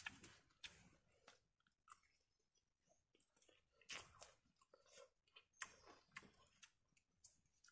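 A person chewing and biting, close and faint: irregular soft crunches and wet clicks, several a second with short pauses, from eating boiled bamboo shoots and rice by hand.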